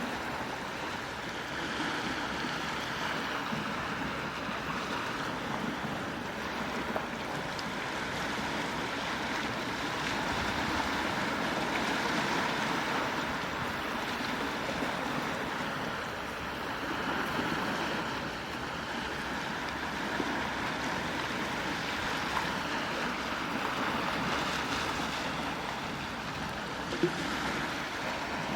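Gentle sea waves washing ashore, a steady wash that swells and eases every few seconds.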